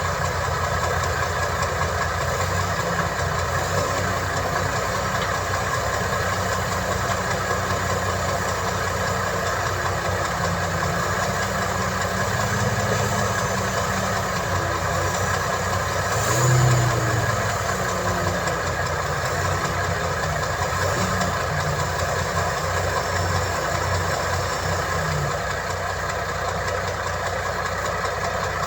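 Heavy construction machine's diesel engine running steadily at a low idle-like pace, with one brief louder swell a little past the middle.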